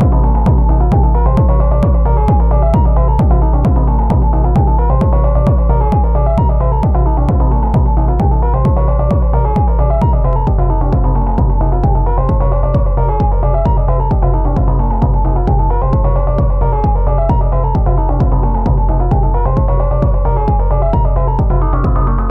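Elektron Analog Rytm drum machine playing improvised techno: a steady, evenly spaced kick beat under a looping synth line that glides up and down in pitch. About halfway through a heavier sustained bass comes in under the kick, and near the end a higher line rises in pitch.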